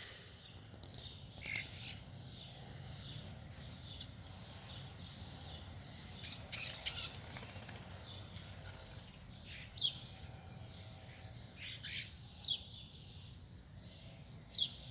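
Cowbird and starlings at a suet feeder: a burst of wing flapping about seven seconds in, and several short, downward-sliding chirps in the second half.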